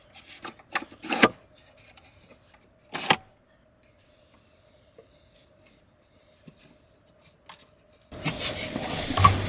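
A few short, sharp scraping strokes in the first three seconds, then a quiet stretch with a faint steady hum. Near the end a louder, continuous noisy background starts abruptly.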